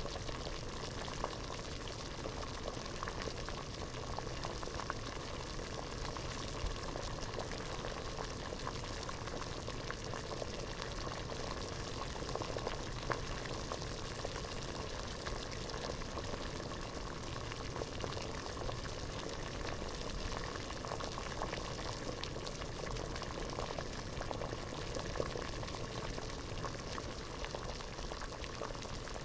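A pot of water at a rolling boil, bubbling steadily with a dense crackle of small pops that does not let up.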